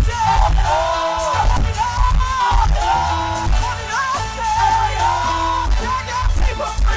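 Choir singing with a full band, with a strong bass and steady beat, in a loud recording.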